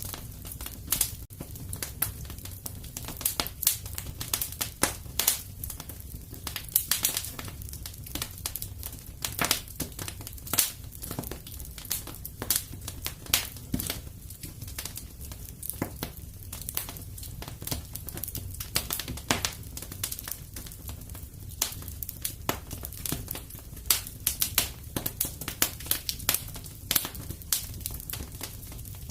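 Wood fire burning in a fireplace: a steady low rumble of flame under frequent irregular crackles and sharp pops.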